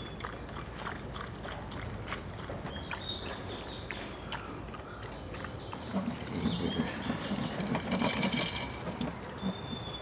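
Small forest birds chirping in short high calls, with close crunching and rustling that starts about six seconds in.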